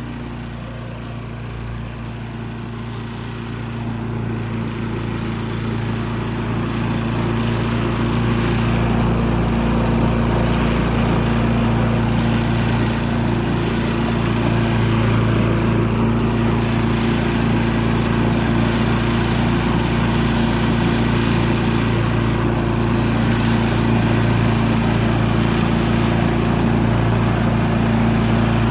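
Self-propelled push mower's small engine running steadily at a high level. It grows louder over the first several seconds, then holds an even drone.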